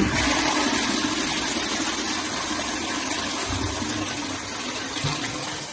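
Toilet being flushed: a sudden rush of water that runs on steadily and slowly fades, as the flush is sent down newly fitted drain pipework to test it.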